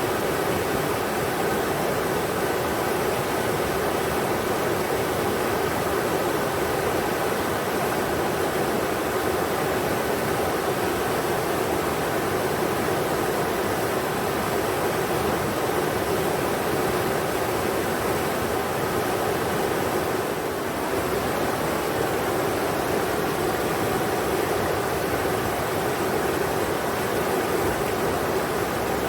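River water rushing over rocks, a steady, even roar of flowing water.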